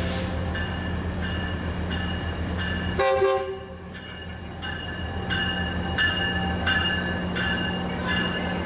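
Locomotive sounds: a steady low engine hum with a bell-like ringing that repeats about every 0.7 seconds, broken about three seconds in by a sudden burst with falling tones.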